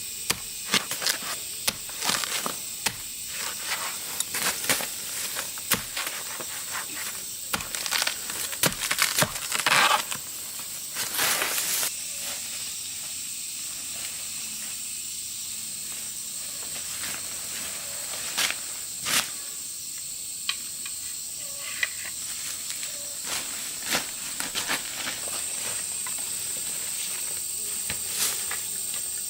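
High-pitched insects calling steadily, mixed with many short rustles and clicks that are busiest in the first twelve seconds and then thin out to an occasional one.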